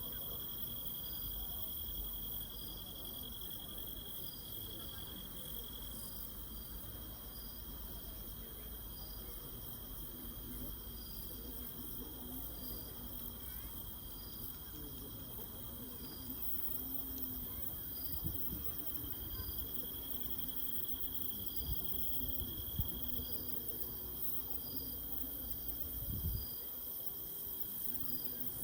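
Insects chirping: one keeps up a steady high trill that fades out after a few seconds and comes back later, while another calls in short, evenly spaced pulses. A low murmur runs underneath.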